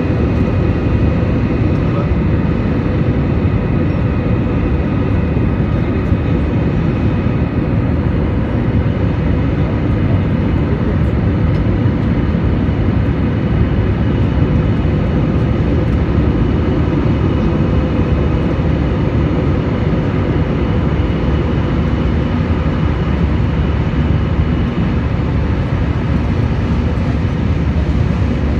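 Airliner engines and airflow heard from inside the passenger cabin during takeoff: a loud, steady low rush with a few steady whining tones above it, holding even throughout.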